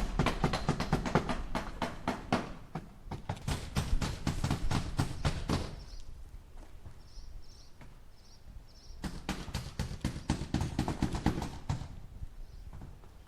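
Hammer striking nails into wood in quick runs of blows, several a second: one long run, a pause of about three seconds, then a second run that stops a little before the end. Faint high chirps sound in the pause.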